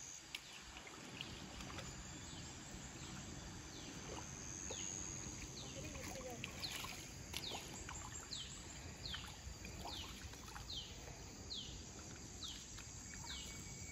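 A bird calling over and over in short falling notes, roughly one a second, starting a few seconds in, over a steady high insect drone and faint outdoor background noise.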